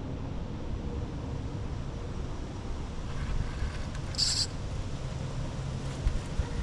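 Steady low rumble of wind on the microphone, with one short high-pitched chirp about four seconds in.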